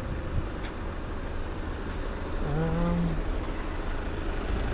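Steady low rumble of street noise, with a short wordless voiced sound about two and a half seconds in.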